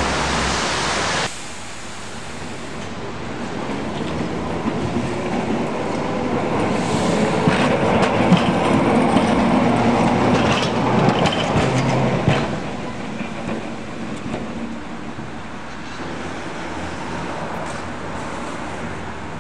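Vintage electric tram running along street track, its wheels clattering over the rails with scattered clicks, loudest in the middle and easing off about two-thirds of the way through. A louder noise cuts off sharply about a second in.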